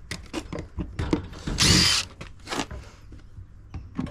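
Power drill running in a short whirring burst about one and a half seconds in, with a briefer burst after it, among clicks and knocks of metal parts, as the dishwasher's pump is unscrewed and taken off.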